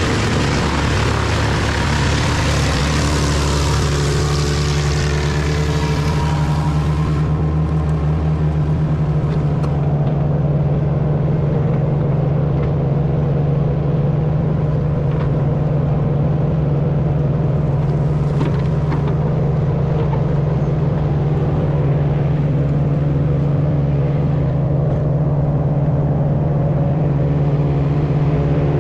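Large wood chipper running under load, its engine droning steadily while a dense rushing, grinding noise of wood being chipped lies over it for the first seven seconds or so, then the engine runs on steadily.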